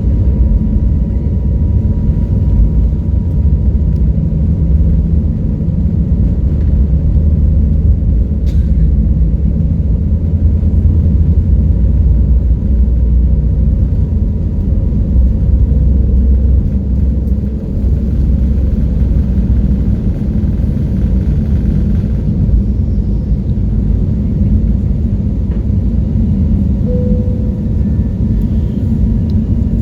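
Steady low rumble of a vehicle in motion, with a faint steady tone above it.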